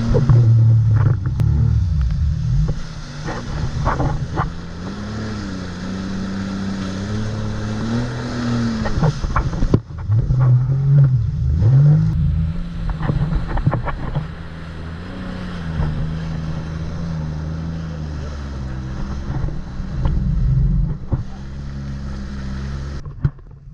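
Jet ski engine running at speed, its pitch rising and falling as the throttle changes, with wind on the microphone and water spray and slaps against the hull.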